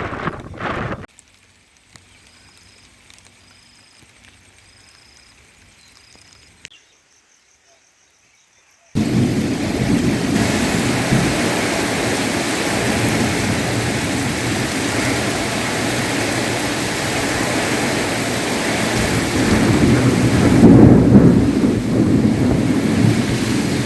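Steady sound of heavy rain with thunder, cutting in abruptly after several quiet seconds, with a louder low rumble of thunder near the end.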